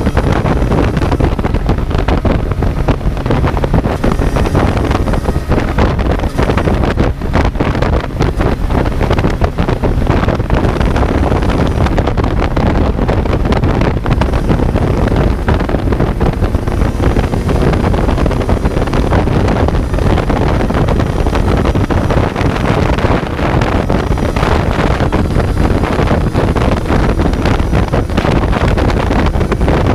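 Kawasaki Z900's inline-four engine running under way, recorded onboard, with heavy wind buffeting on the microphone throughout.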